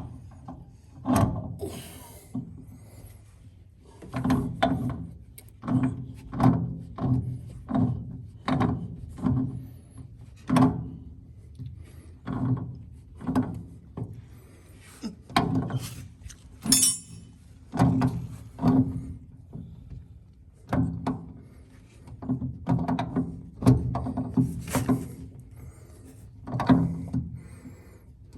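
Wrench knocking and clanking against a fuel tank fitting as it is turned in short strokes, an irregular series of thunks with a short low ring, with a few pauses.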